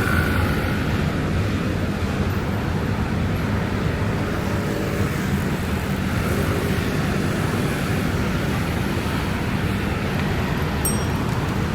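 Steady city traffic rumble: motor vehicles and their tyres on rain-wet streets, an even low drone with no single car standing out.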